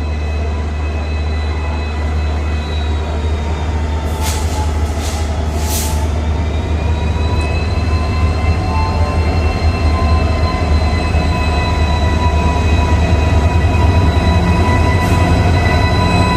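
Indian Railways EMD diesel locomotive running with a train, a steady heavy low engine drone growing slowly louder, with thin high squealing tones that drift slowly in pitch. Three short high hissing bursts come in quick succession a few seconds in, and another near the end.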